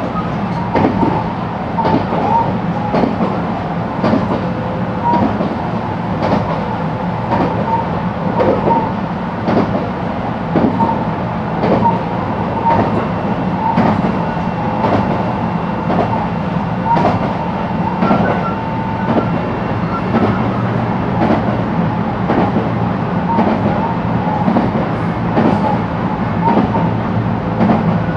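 Running noise inside a JR West 223 series electric motor car cruising on the line: a steady rumble with sharp wheel clacks over rail joints about once a second. A faint high whine holds through the middle.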